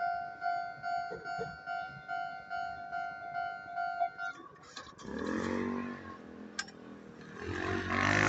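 Japanese railway level-crossing alarm ringing its pulsing two-note electronic tone about twice a second, then cutting off about four seconds in. A deeper pitched mechanical drone takes over and grows louder near the end.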